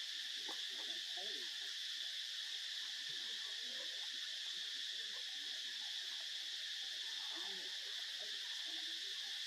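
Steady, unbroken high-pitched drone of an insect chorus, with faint short low calls scattered through it.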